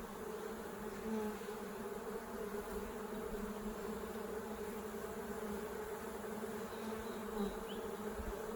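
Honey bees buzzing in a steady swarm-like hum around an open hive, a massed drone with no break.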